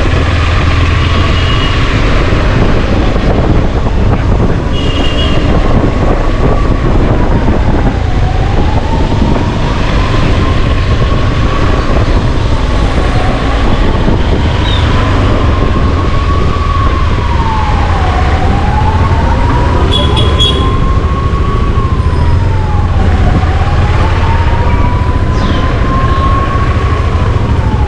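Emergency vehicle siren wailing in slow cycles: each rises over about four seconds, then drops quickly, and starts again about every five seconds. A loud steady low rumble runs underneath.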